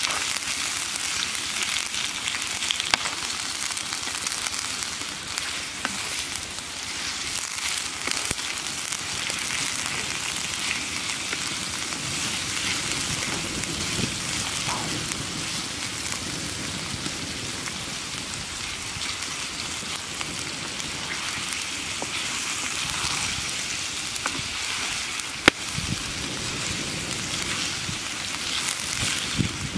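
Small octopuses frying in sauce in a blackened wok over a wood fire: a steady sizzling hiss, stirred with a wooden spatula, with a few sharp clicks.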